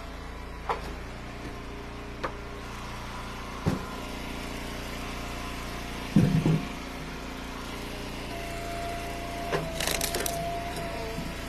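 Engine of a hydraulic log splitter running steadily, with wooden knocks of ash firewood pieces being split and tossed. The loudest is a heavy thump about six seconds in, and there is a quick cluster of knocks near the end.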